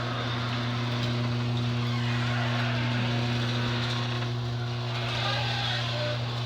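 LiftMaster 1/2 HP chain-drive garage door opener running, moving the door: a steady, loud motor hum.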